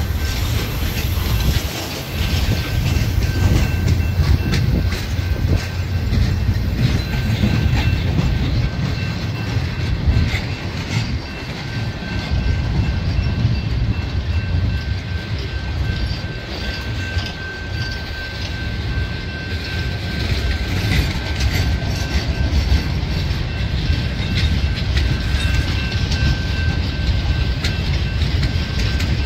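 A train rolling past, a steady rumble with the wheels clicking rhythmically over the rail joints.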